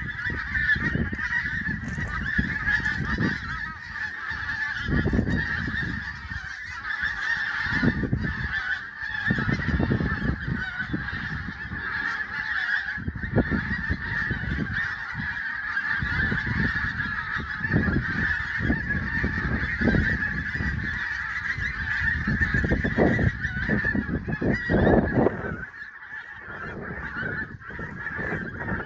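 A large flock of geese honking, many overlapping calls merging into a continuous chorus, with irregular low rumbles breaking in throughout.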